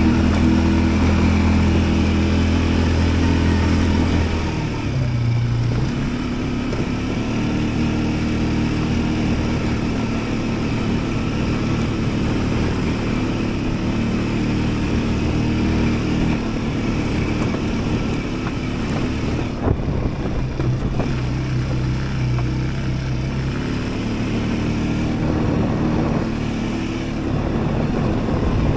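Yuki Tract 200 ATV engine running under way, its note rising and falling as the throttle changes. It is strongest for the first few seconds, eases off about four seconds in, and pulls harder again near the end.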